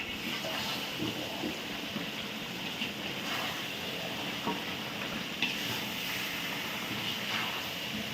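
Chicken frying in oil and masala in a pan, a steady sizzle, while it is stirred on a medium flame with a spoon that scrapes and knocks against the pan every second or so.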